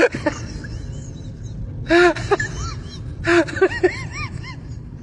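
An animal's short high-pitched calls, each rising and falling: a pair about two seconds in, then a quick run of about six more, over steady background noise.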